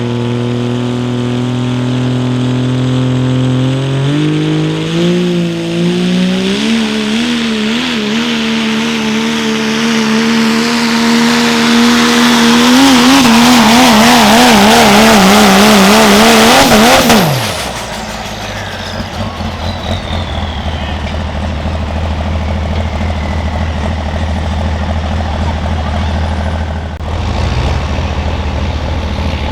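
Turbocharged diesel pickup truck engine making a pull: it climbs to full throttle over the first few seconds and holds there, its pitch wavering up and down, then the throttle is cut a little past halfway and the engine drops quickly to a low idle while a high turbo whistle winds down.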